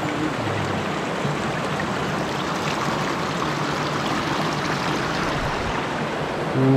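Mountain stream water rushing steadily over rocks. Near the end a short low held tone, a hum or voice-like sound, rises above the rushing.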